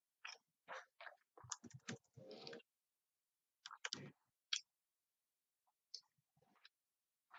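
Quiet eating sounds: a string of short clicks and chewing noises in separate bursts, a cluster in the first three seconds and a few more near the end.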